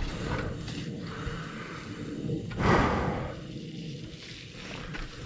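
Mountain bike riding over a wet dirt trail: a steady rush of tyre and riding noise with scattered clicks and knocks, swelling louder about three seconds in.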